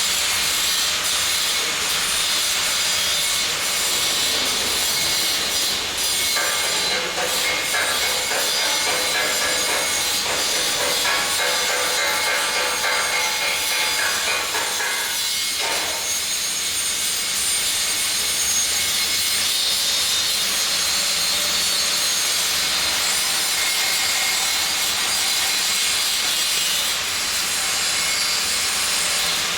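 Electric welding arc hissing steadily and continuously.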